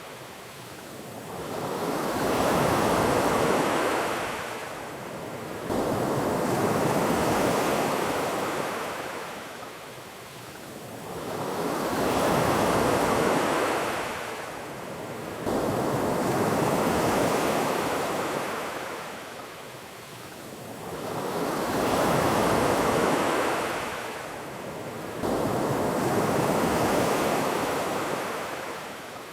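Ocean surf: waves breaking and washing back in slow, rhythmic surges a few seconds apart, some of them coming in suddenly.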